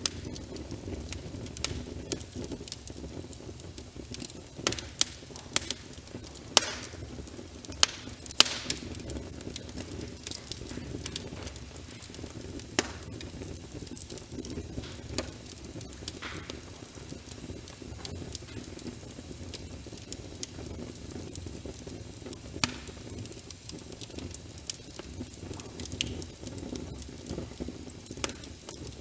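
Wood fire crackling, with irregular sharp pops over a steady low hiss of rain and fire. The pops cluster several times in the first third and come more sparsely after that.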